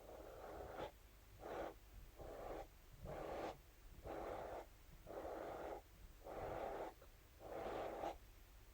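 Scalp massage brush rubbed across a surface in about eight even, rasping strokes, roughly one a second.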